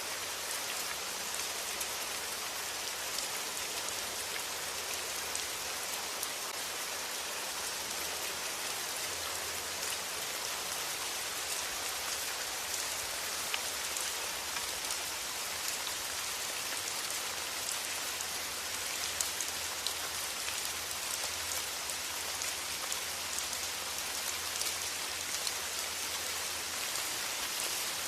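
Steady rain: an even hiss with scattered individual drops ticking through it.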